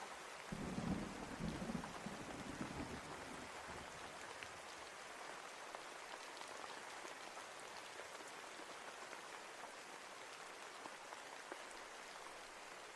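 Steady rain falling, an even hiss of drops, with a low rumble of thunder in the first few seconds.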